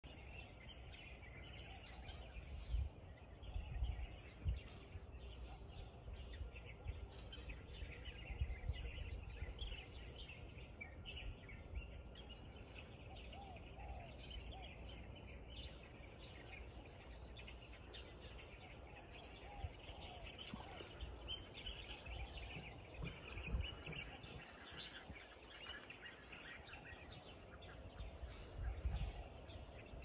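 Many birds chirping and calling in quick, overlapping short notes, over a faint outdoor hush with occasional low rumbles.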